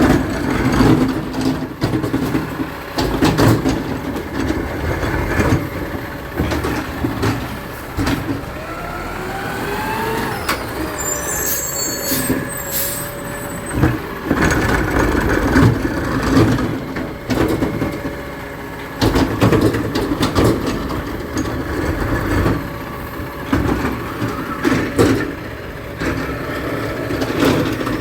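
Garbage truck running, with repeated knocks and clanks and a rising whine about nine to eleven seconds in, followed by short high-pitched hissing bursts.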